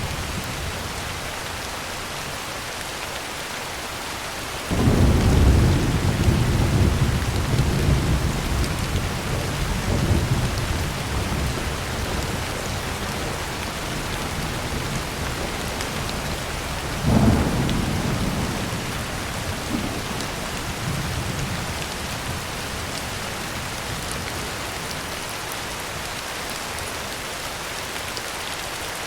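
Steady heavy rain on a tin roof with rolling thunder: a sudden deep clap about five seconds in that rumbles on for several seconds, and a second, shorter crack about 17 seconds in.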